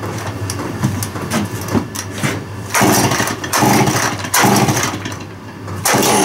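Stihl 041 AV two-stroke chainsaw being pull-started unprimed: a few pulls, then it catches about three seconds in and runs loud. It sags briefly near the end, then picks up and runs steadily. The owner finds it louder than it should be and suspects exhaust leaking at the muffler.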